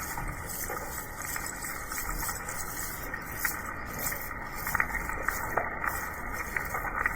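Steady rain falling, with scattered sharper drop impacts through it.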